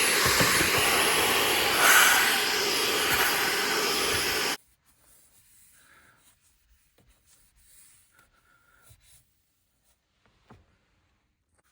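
A vacuum cleaner running with a steady high whine, cutting off abruptly about four and a half seconds in. After that there are only faint light knocks and rustles.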